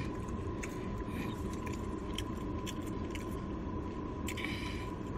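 Steady low background rumble with a thin steady hum, broken by a few faint clicks and a brief rustling sound about four seconds in.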